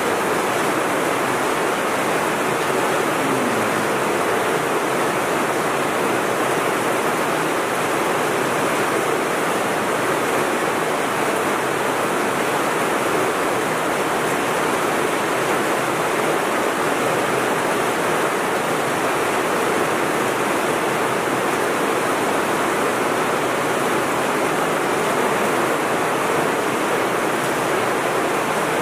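Heavy rain pouring down, a steady, unbroken hiss with no let-up.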